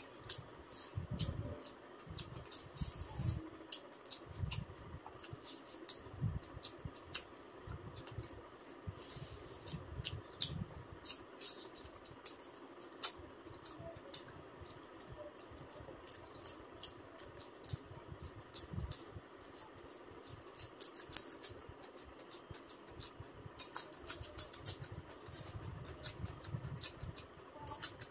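A person eating: close-up chewing and mouth smacks, many short irregular clicks with soft low thumps between them.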